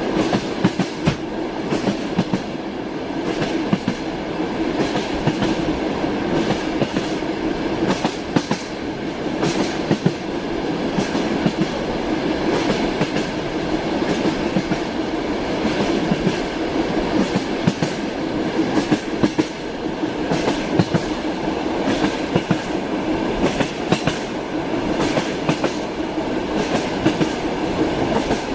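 Passenger train in motion heard from inside a carriage: a steady rumble with frequent, irregular clicks of the wheels over the rails.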